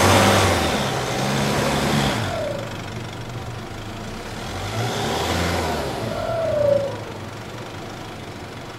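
Off-road vehicle engine revving hard in two surges, the first at the start and the second about five seconds in, each rising and then falling away, with a broad hiss riding on top of the peaks.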